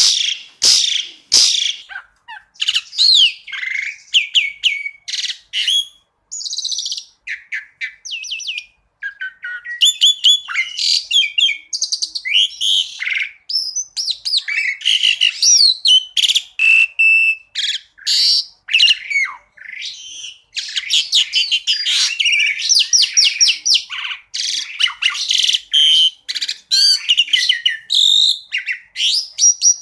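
Asian pied starling (jalak suren) singing a loud, varied song: sharp repeated calls at first, then a fast mix of whistles, gliding notes and rapid trills with only brief pauses.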